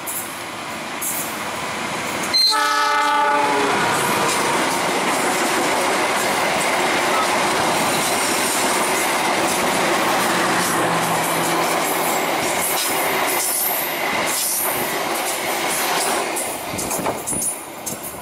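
A train horn sounds one blast lasting about a second. A diesel locomotive and its string of coaches then rush past close by on the next track, with a loud steady rumble and wheel clatter that fades near the end.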